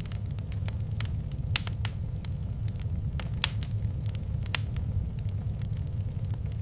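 Wood fire crackling in a fireplace: irregular sharp pops and snaps, three of them louder than the rest, over a steady low rumble.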